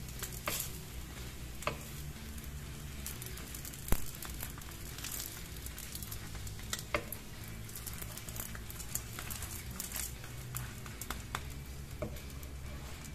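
Egg pancake sizzling in oil in a nonstick frying pan, with light scrapes and taps of a wooden spatula and a metal fork against the pan as the pancake is rolled. One sharper knock comes about four seconds in.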